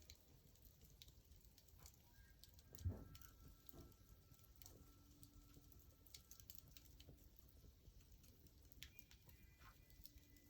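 Faint, scattered crackles and small pops of a burning wood fire, with one louder low thump about three seconds in.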